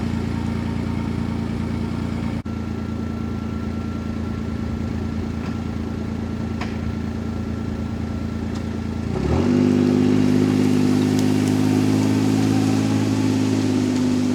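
Kawasaki Mule utility vehicle's engine running steadily under load while towing a brush-laden skidder, then revving up about nine seconds in and holding a higher, louder note.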